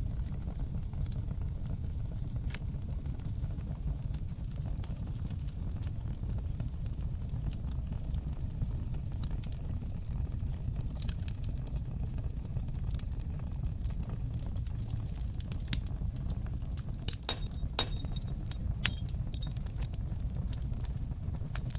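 Fire burning in an open fireplace: a steady low rumble of flames with scattered sharp crackles and pops, which come thicker about three-quarters of the way through, including one louder pop.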